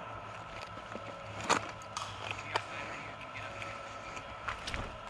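Scattered airsoft gunfire: a few sharp cracks, the loudest about a second and a half in and another right at the end.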